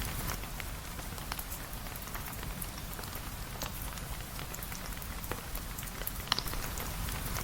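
Steady rain, an even hiss with scattered sharp drip-like ticks throughout and one louder tick about six seconds in.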